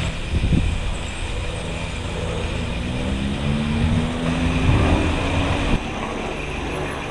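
MBB/Kawasaki BK 117 helicopter flying past: steady rotor and turbine noise with a tone that rises over a few seconds. The sound changes abruptly about six seconds in.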